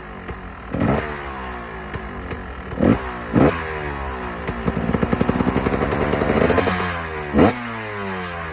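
KTM EXC 250 two-stroke engine through an Akrapovic exhaust, idling with four quick throttle blips and a longer held rev in the middle.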